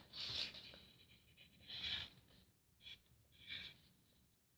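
Faint scratching of a pen or marker drawing on paper, in several short strokes about a second apart.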